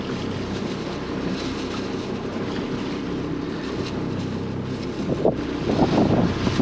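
Small fishing boat's engine running steadily under wind buffeting the microphone and choppy water, getting louder with rushes of wind and water near the end.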